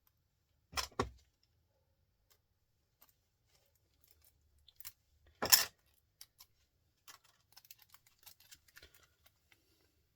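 Metal clinking and clattering as small motor parts and tools are handled while a motor is stripped for its copper. Two louder clanks come about a second in and about halfway through, with light clicks and ticks in between.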